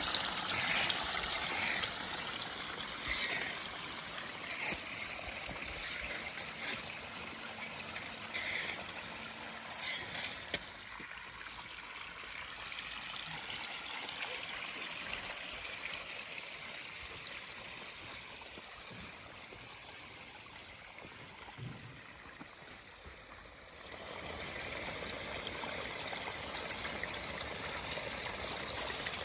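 Water running and trickling down the rocks of a newly built pondless waterfall, its pump newly running, with some brief splashes in the first ten seconds. It gets quieter for a stretch in the middle, then louder again about 24 seconds in.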